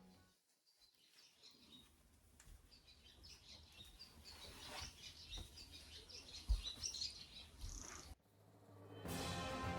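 Small birds chirping and twittering in many short high calls, with one brief low thump partway through; music fades out at the start and comes back near the end.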